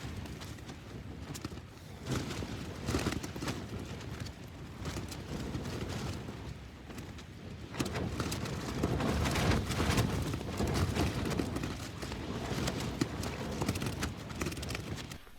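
Gale-force wind buffeting a Durston tent from inside, the fabric flapping and snapping rapidly in gusts. The gusts are strongest about eight to eleven seconds in.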